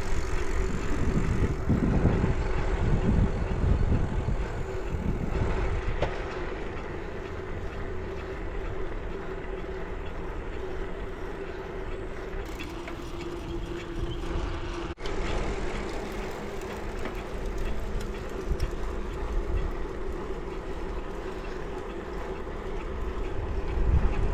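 Riding a bicycle along a paved trail: wind buffeting the microphone and steady tyre and drivetrain noise, with heavier gusts of rumble early on and near the end.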